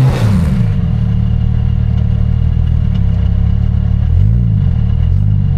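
Off-road 4x4's engine coming off high revs at the start, then running steadily at low revs with a short blip of the throttle about four seconds in and another near the end.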